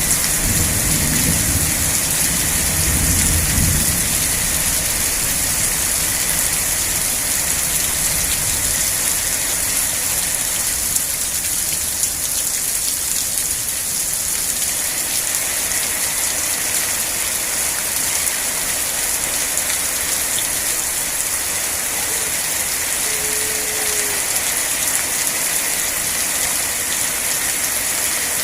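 Steady rain falling, an even hiss strongest in the high range, with a low rumble under it in the first few seconds.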